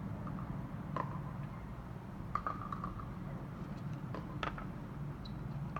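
Distant helicopter working a wildfire, heard as a steady low drone, with scattered short clicks over it.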